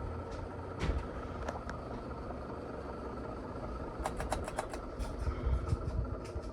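1990s SMC Laguna ceiling fan running on high, a steady motor hum from a fan whose bearings are worn. A quick run of several clicks comes about four seconds in.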